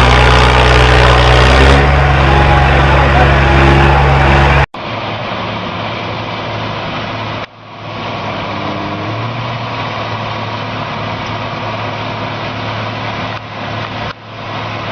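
Heavy vehicle engines running, heard in several clips cut together. A loud, steady low engine drone gives way abruptly about four and a half seconds in to a quieter, duller engine noise, with brief breaks near the middle and near the end.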